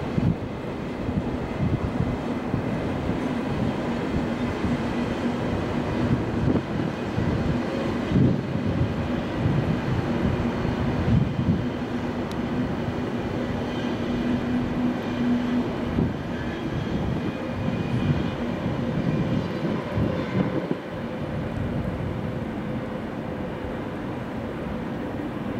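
Deutsche Bahn ICE high-speed electric train running past on the rails: a steady rumble of wheels on track with scattered clicks and a steady hum that stands out in the middle of the pass.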